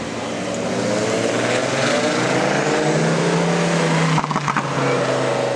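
Car engine pulling hard, its pitch climbing steadily. About four seconds in there is a short crackle, and then it runs on at a lower pitch.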